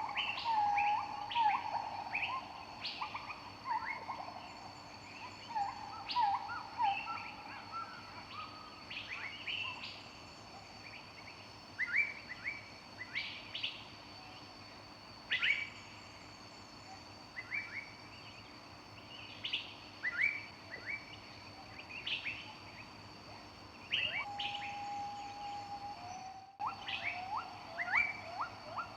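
Several songbirds singing in a forest, a mix of short sweeping chirps and whistles with quick trills near the start and the end and one longer held whistle near the end.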